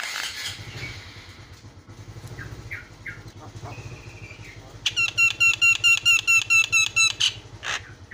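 Javan myna calling: scattered harsh notes, then in the second half a fast, loud run of about a dozen identical clear notes, some five a second, lasting about two seconds. A low steady hum runs underneath.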